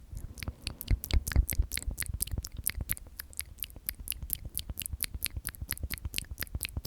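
Close-up ASMR mouth sounds: quick crisp clicks and smacks, about six or seven a second, at an even pace.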